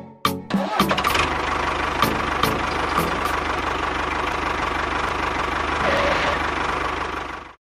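Engine running steadily at idle with a fast low knocking beat. It starts about half a second in and cuts off abruptly near the end.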